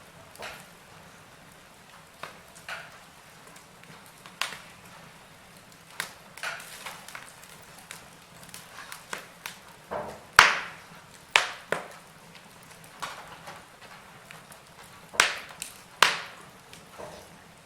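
Fireplace fire crackling, with irregular sharp pops over a faint steady hiss; the loudest pop comes about ten seconds in, with another strong cluster near the end.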